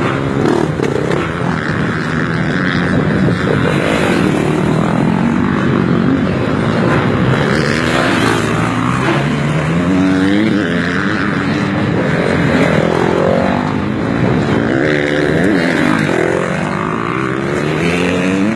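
Several MX2 motocross bikes running together, their engines revving up and down over one another.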